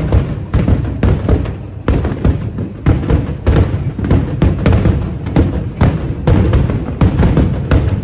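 A fireworks display with aerial shells bursting in a dense run of low thuds, several a second, with music playing alongside.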